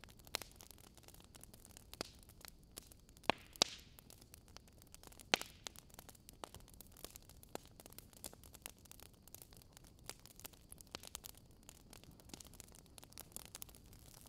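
Fire crackling in a fireplace: irregular sharp pops and snaps over a faint steady hiss, the loudest pops about three and a half and five seconds in.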